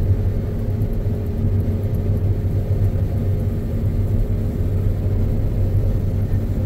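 John Deere X9 combine running steadily while harvesting standing canola: a constant low drone of engine and threshing machinery with a few steady hum tones.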